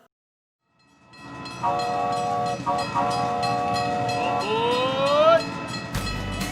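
Train sound effect: rail noise fades in after a moment of silence, then a chord-like train horn sounds, briefly broken twice, followed by a rising whistle glide about four and a half seconds in.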